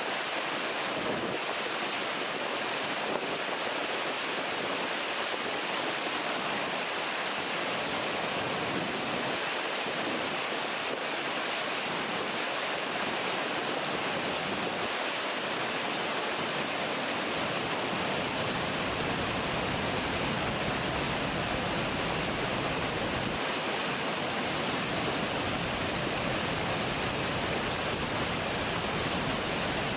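River water pouring over a weir, a steady rushing, its low rumble growing fuller about two-thirds of the way through.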